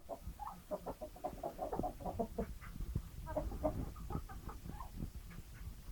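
Domestic chickens clucking: many short calls overlapping throughout.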